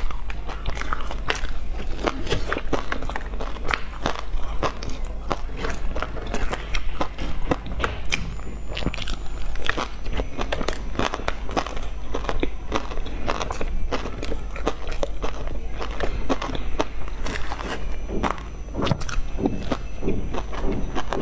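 Close-miked biting and chewing of a pastry coated in meat floss and seaweed: a dense, irregular run of crunchy crackles and mouth clicks, over a steady low hum.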